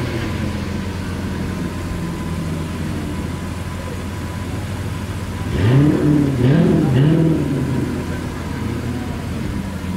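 Lamborghini Veneno's V12 engine idling steadily, then blipped three times in quick succession a little past halfway, each rev rising and falling back to idle.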